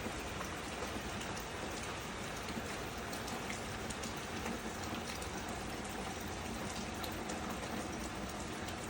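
Steady rain falling, with drops pattering on surfaces.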